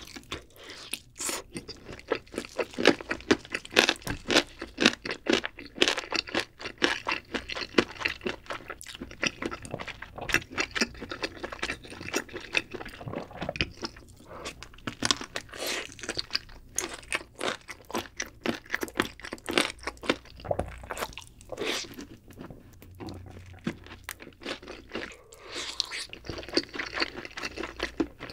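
Close-miked eating of a Jamaican-style grilled whole chicken leg: crunchy bites and chewing, a dense run of crackles and mouth sounds.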